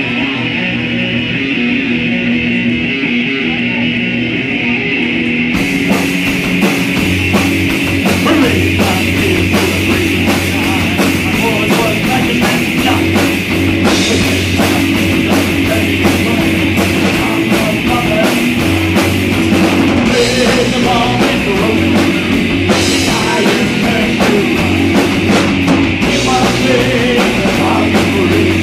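Heavy rock band playing an instrumental passage: a sustained guitar intro, then the drum kit and full band come in about five seconds in and drive on with a steady beat.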